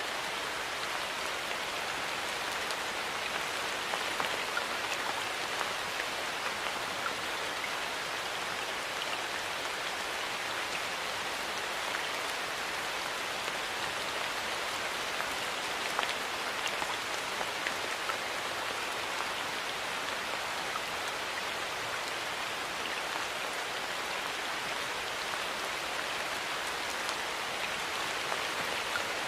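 Steady rainfall, an even hiss with many individual drops pattering on surfaces.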